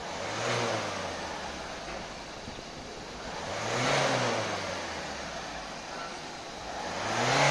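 Citroen C-Elysee's diesel engine revved three times, each rev a rise and fall in pitch lasting about a second, at roughly three-and-a-half-second intervals. It is heard at the tailpipe, and each rev blows liquid out of the exhaust into a container: the flush stage of a diesel particulate filter cleaning.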